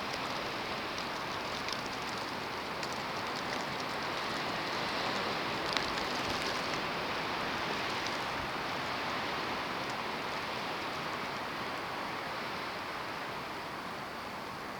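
Snowstorm: an even hiss of wind and blowing snow that swells a little in the middle and eases toward the end, with a few faint ticks early on.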